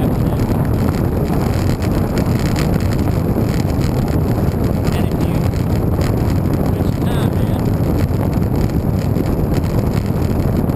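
Wind buffeting the microphone of a camera on a moving bicycle: a steady rushing noise, heaviest in the low end.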